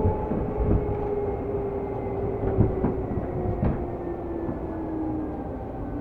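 Seibu New 2000 series electric commuter train running, its traction-motor whine sliding slowly down in pitch as the train slows, over a steady rumble of wheels on rail. Several sharp knocks from wheels passing rail joints come in the first few seconds.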